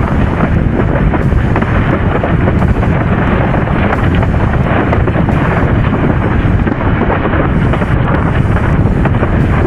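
Strong wind buffeting the microphone in a steady, loud rumble, with water rushing beneath it, as heard from a windsurfer sailing fast in high wind.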